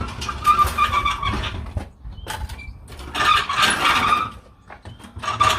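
Cordless impact wrench hammering at a bolt in three bursts of about a second each, with short pauses between them, as it works on the last bolts holding the car's rear subframe.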